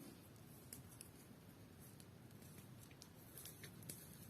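Faint irregular crackling and ticking of a fire of paper and schoolbooks burning in a metal barrel.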